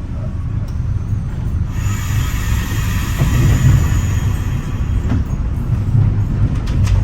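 Metra bi-level commuter train rolling along the track, heard from inside the front cab car: a steady low rumble, a hiss that comes in about two seconds in and fades a couple of seconds later, and a few light clicks.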